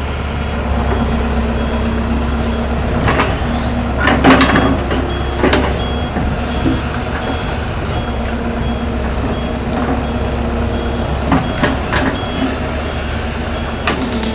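Hitachi excavator's diesel engine running steadily, with a short high alarm beep repeating at even spacing and several sharp knocks, the loudest about four seconds in.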